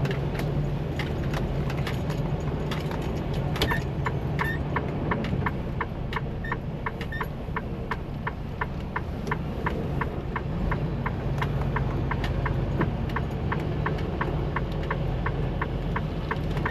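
Truck's turn signal ticking in an even rhythm of about three clicks a second, settling into a steady beat a few seconds in, over the low steady hum of the truck's engine.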